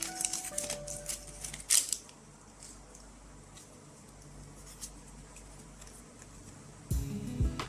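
Crinkling and snipping of a foil Pokémon booster pack wrapper being opened, with sharp clicks over about the first two seconds, then only faint handling ticks. Music comes in near the end.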